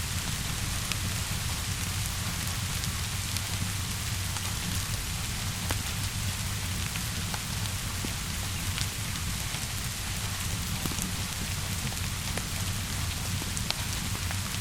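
Steady rainfall with a low steady rumble underneath, and scattered sharp pops and crackles of a wood fire.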